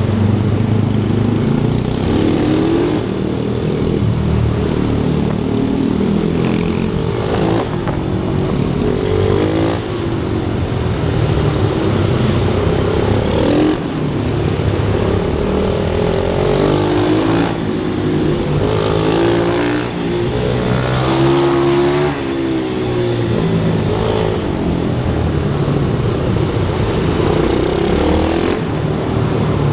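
Pit bikes' small single-cylinder engines revving on a track, several at once, their pitch rising and falling with each acceleration and shift.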